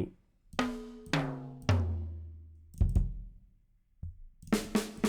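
Sampled acoustic drum kit played back from BFD3 drum software: single tom strikes, each ringing out and each lower in pitch than the last, then a sharp low drum hit about three seconds in and a quick run of tom hits near the end.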